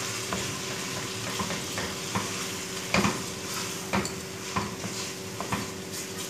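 Chicken pieces with ginger-garlic paste sizzling steadily as they fry in oil in a frying pan, stirred with a plastic spatula that scrapes and knocks against the pan at irregular moments, most strongly about three seconds in.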